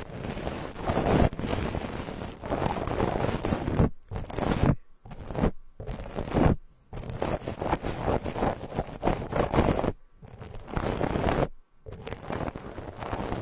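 Soft ASMR brushing strokes across the microphone: close, scratchy rustling in runs of quick strokes, broken by several brief pauses.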